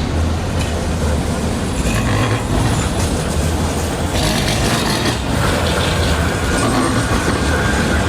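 A tram running on its track: a steady, loud rumble of motor and wheels on rail.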